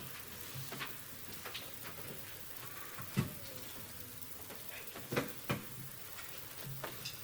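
Quiet room with a low hum and a few short knocks and clicks, the clearest about three seconds in and twice around five seconds in.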